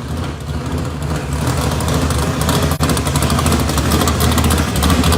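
Muscle car engines running loudly, growing louder over the first couple of seconds, with a brief drop-out near the middle.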